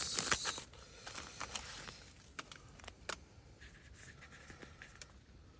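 Food-prep handling: a short burst of rustling at the start, then scattered light clicks and knocks of utensils and containers being handled.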